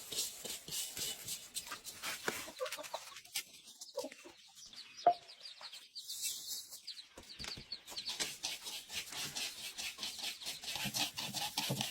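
Chickens clucking, amid many short scratching and tapping clicks.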